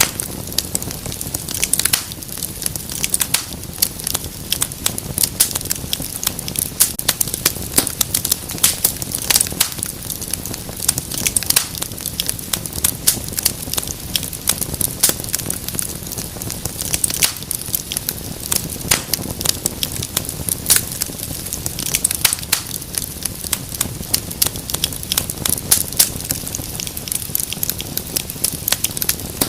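Wood fire crackling in a fireplace: dense, irregular pops and snaps over a steady low rumble of burning.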